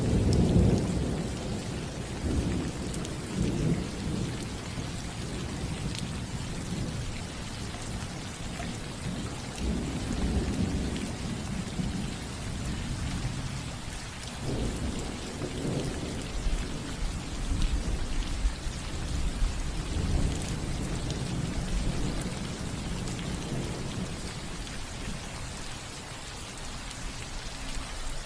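Steady rain falling on a roof, with rolls of thunder rumbling underneath: a strong roll at the start that fades, then further low rumbles swelling and dying away every few seconds.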